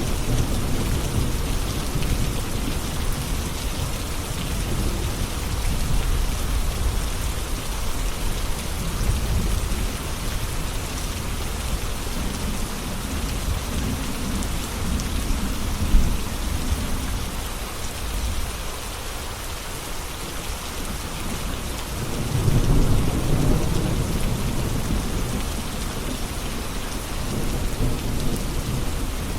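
Steady heavy rain falling, with low rolling rumbles of thunder that swell and fade, the strongest about three-quarters of the way through.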